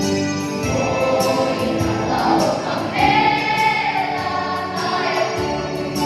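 A choir of junior high school students, boys and girls together, singing with held notes that change every second or so.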